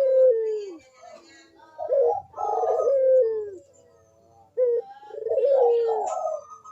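Puter (ringneck dove) cooing: three phrases about two and a half seconds apart, each a short stepped 'kuk-deruk' call that ends in a long falling coo.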